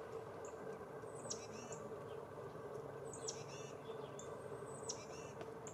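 Faint songbird calls: three times, about two seconds apart, a short high note followed by a falling call.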